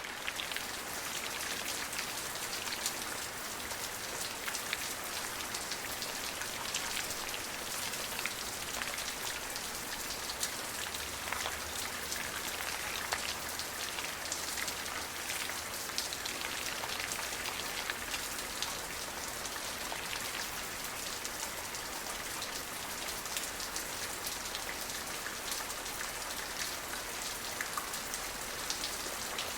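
Steady rain falling on a surface: an even hiss strewn with many small, sharp drop ticks, with no thunder.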